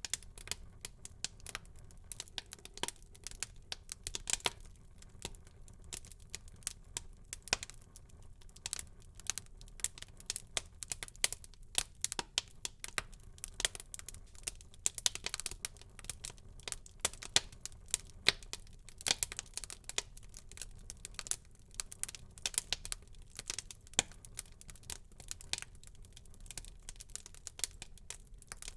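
Wood fire crackling in a fireplace: a dense, irregular run of sharp pops and snaps over a low, steady rumble of burning.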